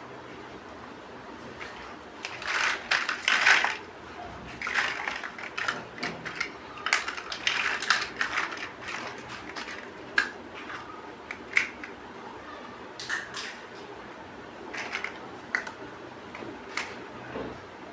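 Plastic building bricks being handled and pressed together: irregular clicks and rattles in clusters for the first half, thinning to single clicks later.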